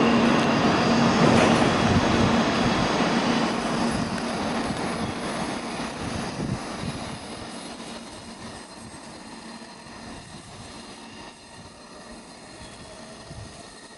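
N700 Series Shinkansen train pulling out of the station. Its running noise fades steadily as it moves away, with a steady low hum in the first few seconds.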